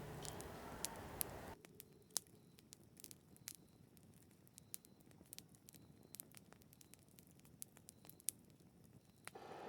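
Acoustic guitar music fading out, then near silence with faint, scattered small clicks and taps from hand crafting work.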